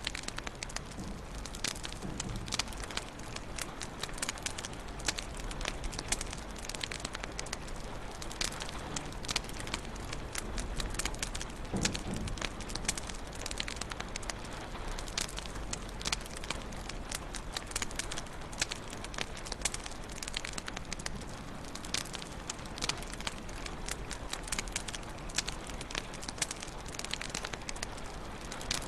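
Wood fire burning in a fireplace, crackling steadily with many irregular small pops and snaps over a soft hiss.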